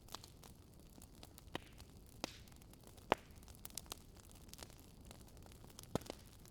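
Wood fire in a fireplace crackling: about ten scattered sharp pops, the loudest about three seconds in, over a faint steady low hiss.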